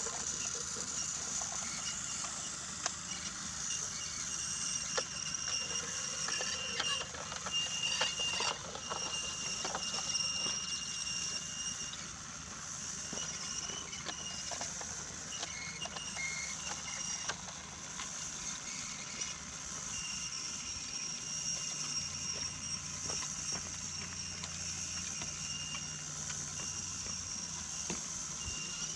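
Brio wooden toy train running along wooden track: a steady high whine with scattered small clicks and rattles, most of them a few seconds in.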